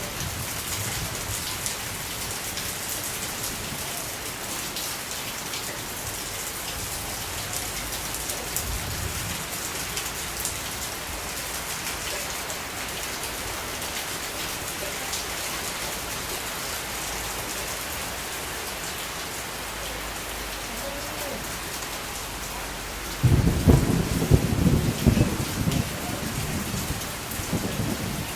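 Steady rain falling, a dense patter of drops. Near the end a louder low rumble comes in and lasts several seconds.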